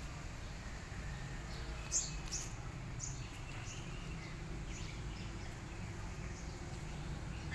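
Outdoor ambience: a steady low background rumble with faint, short bird chirps scattered through it.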